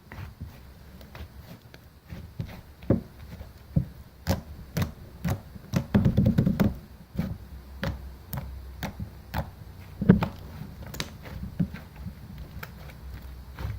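Irregular knocks and taps, about one or two a second, with a denser run of low thuds around six seconds in and one loud knock about ten seconds in.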